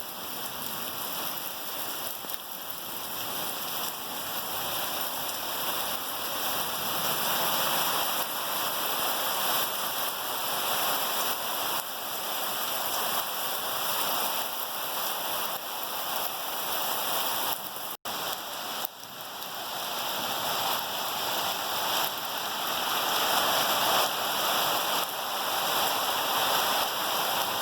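Heavy rain falling steadily, an even hiss of rain on surfaces that drops out for a moment about eighteen seconds in.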